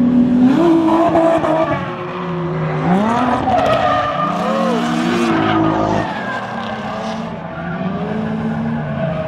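Drift cars' engines revving up and down over and over, with tyres squealing and hissing as the cars slide sideways.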